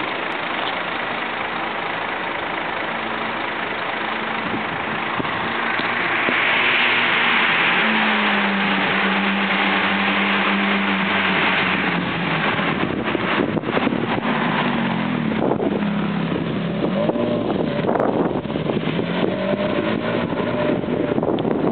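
Ferrari F430's V8 engine and exhaust running, its pitch mostly steady, then dipping and climbing again in the second half. A broad hiss swells for several seconds in the middle, and rough crackling noise covers the latter part.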